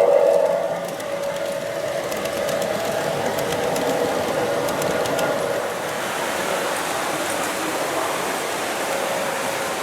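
G-scale model train running along garden track, a steady rolling rumble of wheels and motor with a few light clicks. A pitched, tonal sound fades out within the first second.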